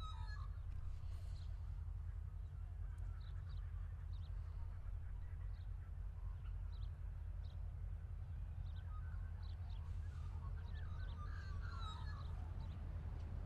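Birds calling: a burst of warbling calls at the start and another about ten seconds in, with short high chirps scattered between. Under them runs a steady low rumble.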